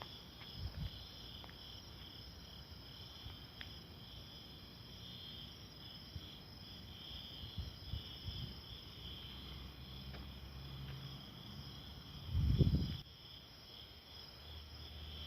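Steady outdoor insect chorus, a pulsing high-pitched chirring, with scattered low thumps and a louder low rumble about twelve seconds in.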